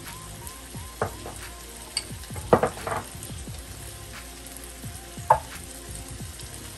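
Diced potatoes sizzling steadily as they fry in oil in a pan, with several sharp clinks of kitchenware: a cluster about two and a half seconds in and a loud one about five seconds in.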